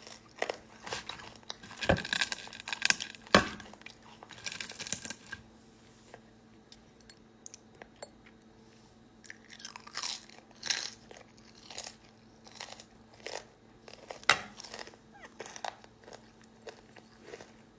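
Close-up chewing and crunching of food, in irregular bursts with sharp clicks and knocks; the loudest knocks come about two seconds in, at three and a half seconds and near fourteen seconds.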